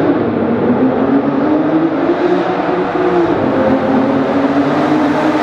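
Aston Martin Vanquish's 6.0-litre V12 engine pulling the car through a road tunnel, its pitch climbing over the first few seconds, dipping, then holding steady, with the sound echoing off the tunnel walls.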